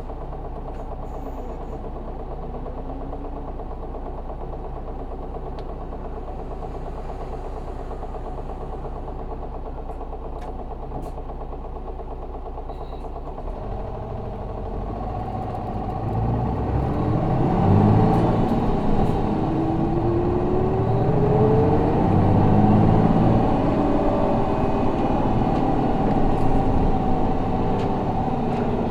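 Isuzu 6HK1 inline-six diesel of a city bus, heard from inside the cabin. It idles steadily, then about halfway through it comes under load and pulls away, getting louder with its pitch rising as the bus accelerates.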